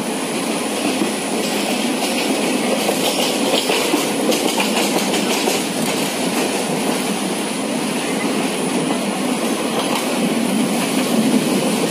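Passenger train running at speed, heard from on board: a steady rumble and rattle of the wheels on the rails, with faint clicks from the track.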